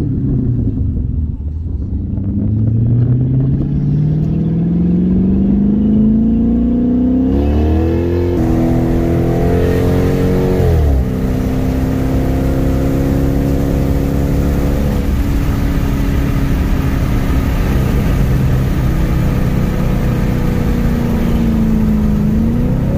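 5.7-litre Hemi V8 of a Chrysler 300, heard from inside the cabin while driving. The engine note rises as the car accelerates and drops sharply about eleven seconds in at an upshift, then settles into a steady cruise with a slight dip and rise near the end.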